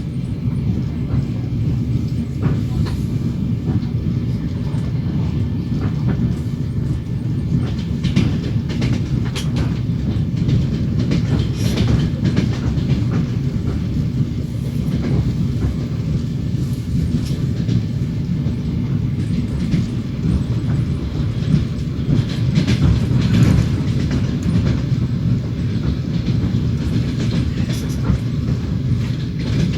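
Train wheels clacking over rail joints above the steady low rumble of a moving railway carriage, heard from inside the train.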